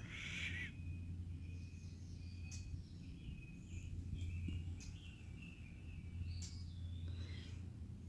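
Several small birds chirping and calling in the background, short high chirps and whistles scattered all through, over a low steady hum.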